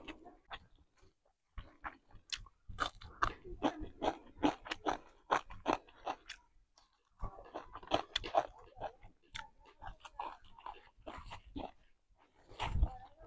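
Close-miked chewing and biting of masala chicken and rice: a dense run of small clicking mouth sounds that pauses briefly twice, with one louder thump near the end.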